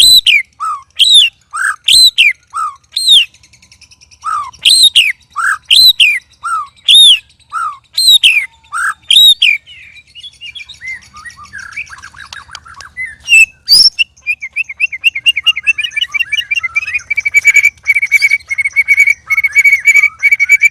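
White-rumped shama (murai batu) singing. It opens with a run of repeated two-part whistled phrases, about one a second, each a high arching note followed by a lower one. Then comes a burst of varied twittering with a sharp click, and for the last several seconds a fast, steady trill of rapid notes.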